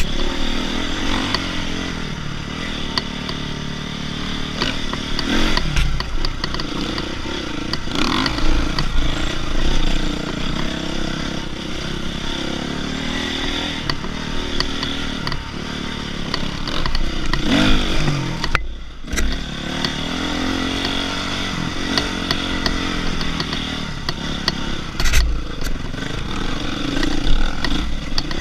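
Dirt bike engine running as the bike is ridden on a trail, its pitch rising and falling with the throttle, with clattering and knocks from the bike over rough ground. The engine sound drops away briefly about two-thirds of the way through.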